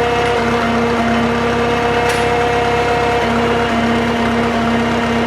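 Drott 85RM2 crane's engine running steadily, with a steady whine over it that drops out briefly twice. A single sharp tick sounds about two seconds in.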